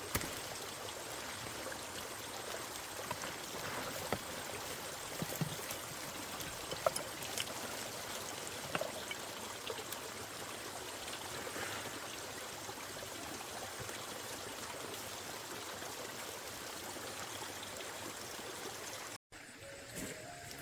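Steady running water, like a small stream, with a few faint clicks and knocks over it. Near the end it cuts off suddenly to a quieter background.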